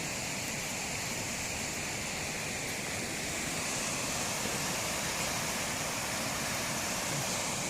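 Steady rush of a forest stream's flowing water.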